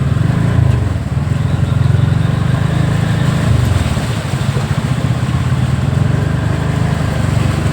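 Steady low rumble of a motor vehicle engine running while it moves through floodwater.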